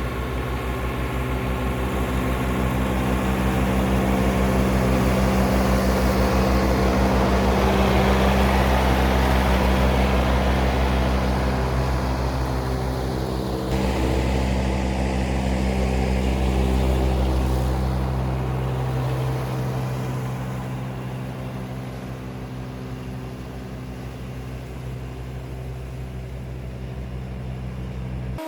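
A John Deere 3039R compact tractor's three-cylinder diesel engine running steadily under load, with its 72-inch mid-mount mower deck cutting tall wet grass. The sound swells to its loudest about a third of the way through, then eases off over the last ten seconds.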